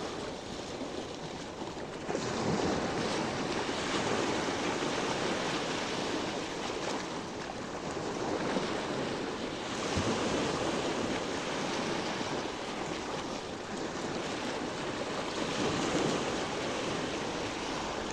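Sea surf washing in, a steady rush of water that swells louder every few seconds and falls back again.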